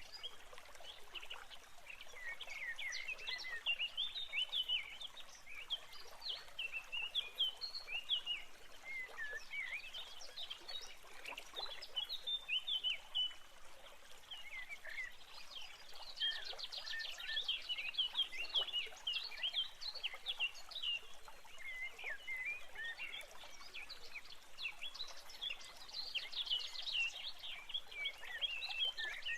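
Birds chirping and singing, many short overlapping chirps and quick trills going on continuously.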